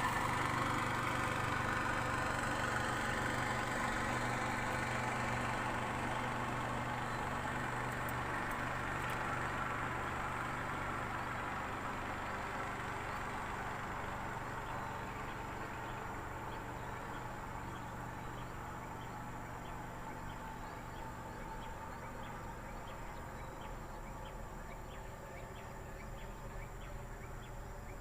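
A motor running steadily with a low hum, gradually fading away. Faint insect chirps come through in the second half.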